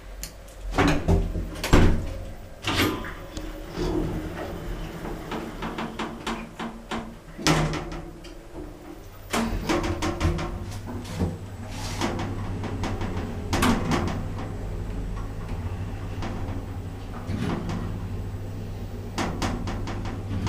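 Passenger lift in use: a string of sharp knocks and clunks from its doors and mechanism, then, from about nine seconds in, a steady low hum as the lift runs.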